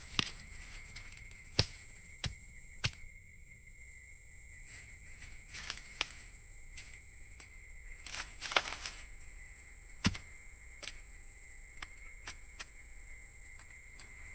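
Steady high-pitched drone of jungle insects, with about seven sharp clicks or knocks scattered through it, the loudest near the start and about ten seconds in.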